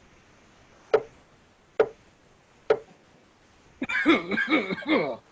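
A judge's gavel rapping three times, evenly about a second apart, calling the court to order. A man's voice starts speaking near the end.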